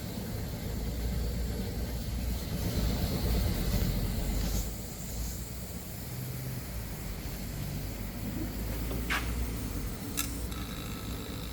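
Steady low mechanical rumble, swelling and easing in the first half, with two sharp clicks near the end.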